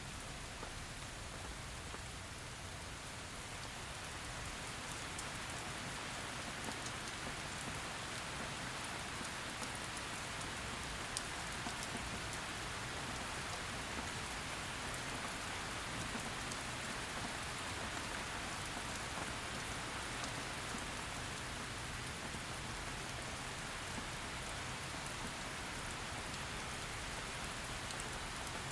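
Heavy rain falling steadily, a dense hiss of drops on a surface with scattered individual drop ticks, swelling slightly a few seconds in.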